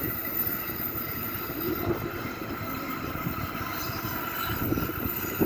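Electric commuter train running past on the line: a steady rumble with a faint motor whine, and low wheel knocks over the rail joints in the second half.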